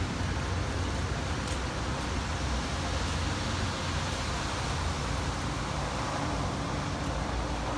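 Steady traffic or road noise: a continuous low rumble under an even hiss.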